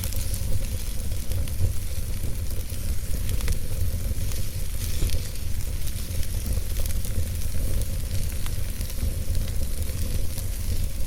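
Wood logs burning in a fireplace, crackling with many small irregular pops over a steady low rumble and hiss.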